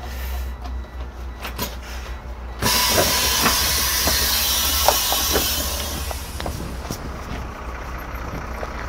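Irisbus Récréo II coach's air system releasing a sudden loud hiss of compressed air about two and a half seconds in, which fades over the next few seconds. The diesel engine idles underneath, with a few small clicks before the hiss.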